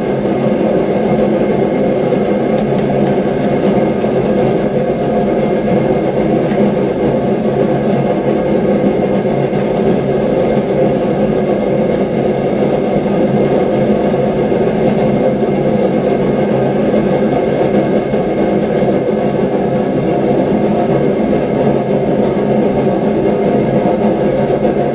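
A forge running at full heat: a loud, steady rush with an even hum, unchanged throughout.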